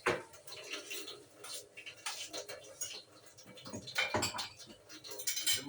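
Light clatter of household items being handled: scattered, irregular clicks and knocks.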